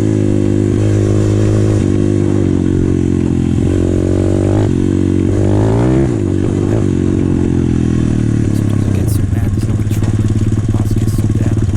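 Pit bike's small single-cylinder four-stroke engine running, blipped twice so the pitch rises briefly about four and five and a half seconds in, then falling back to a steady idle with plainly separate firing pulses. The valves have just been adjusted and the spark plug is new.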